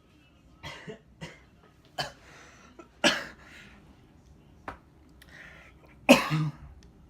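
A man coughing and clearing his throat in a string of sharp coughs, loudest about three seconds in and again near the end.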